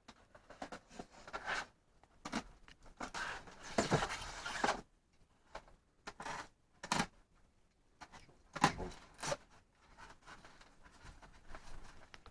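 Unboxing handling noise: irregular rustling and scraping of packaging as parts are lifted out of the box, with a longer spell of rustling a few seconds in and several sharp knocks later on.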